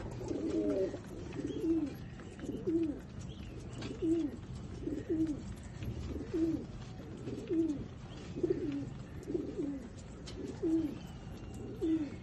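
Pigeon cooing: a run of short, low coos at about one a second, over a steady low hum.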